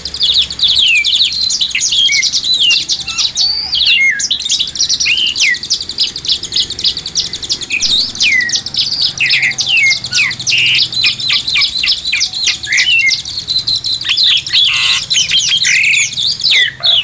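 Oriental magpie-robin (kacer) singing a loud, continuous, varied song: a rapid stream of sweet whistles, chirps and downslurred notes with hardly a pause.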